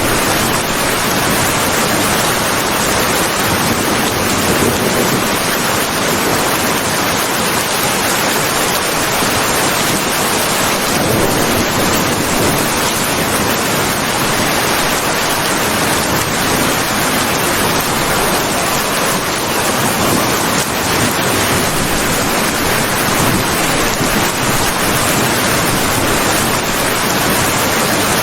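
Steady, dense rain: a constant even hiss without pauses or single drops standing out.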